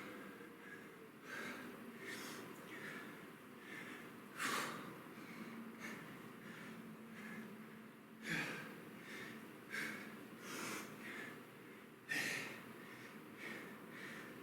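A man breathing hard through a kettlebell set, a short puff of breath every second or less, with several sharper, louder exhalations through the middle and near the end.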